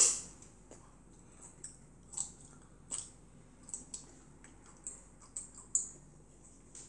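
A child chewing juicy mandarin orange segments, with short, wet mouth smacks and clicks scattered through, the loudest right at the start.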